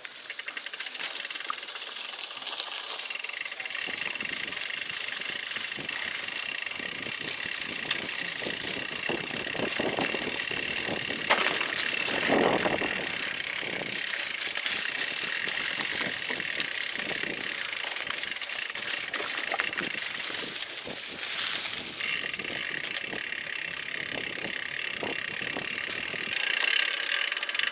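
Mountain bike rolling over a rough dirt trail: steady tyre noise with the bike rattling and clicking over bumps.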